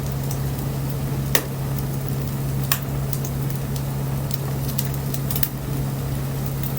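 Wood bonfire crackling, with scattered sharp pops (two louder ones, about a second and a half and nearly three seconds in) over a soft hiss, and a steady low hum beneath.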